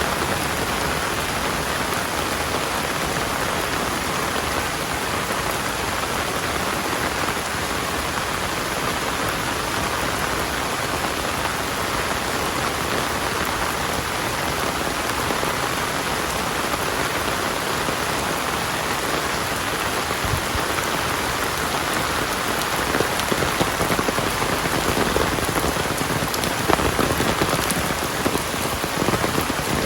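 Heavy rain pouring steadily onto surfaces, with a few sharper drops or splashes standing out near the end.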